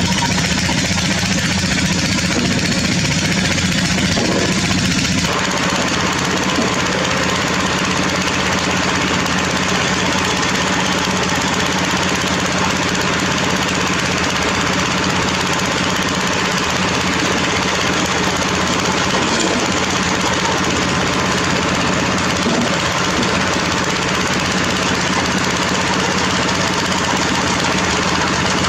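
Heavy diesel construction machinery running steadily under load, with a constant engine hum under a dense mechanical noise that becomes fuller in the upper range about five seconds in.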